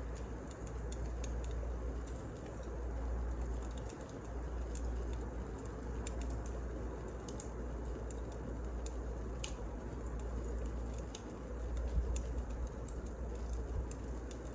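Wood fire burning in a fireplace: a steady low rumble and hiss with scattered small crackles and pops.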